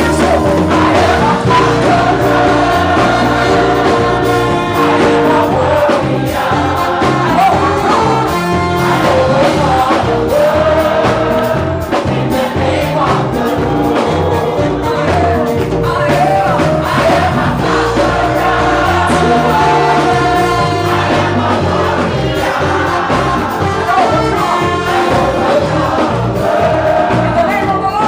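Live gospel praise music: choir and congregation singing together over a band, with a bass line and drums, loud and steady throughout.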